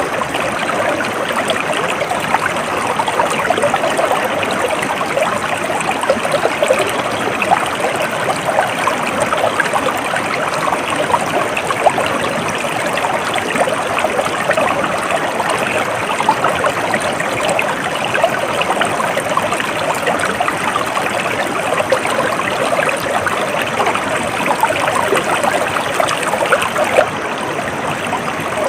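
Stream water flowing and trickling in a steady, dense babble.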